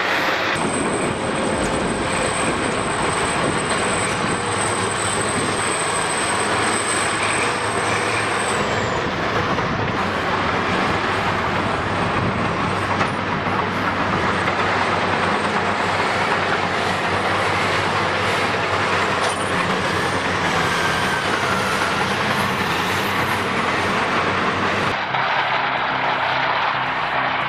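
Caterpillar 657 wheel tractor-scrapers running, a loud steady diesel engine drone with a thin high whine over it for about the first eight seconds.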